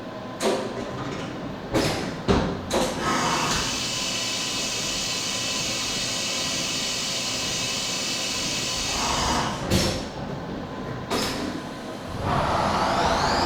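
CNC milling machine cutting aluminum billet: a few sharp clunks, a steady hiss, then more clunks and the spindle whine rising in pitch near the end as it spins up.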